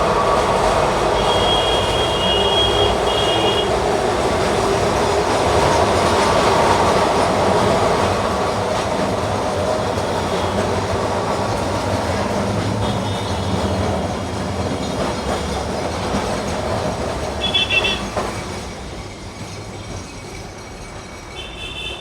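Kolkata electric tram running on street rails: a steady rumble and rattle of steel wheels on track, with short high-pitched tones coming and going several times. The running sound falls away after about 18 seconds.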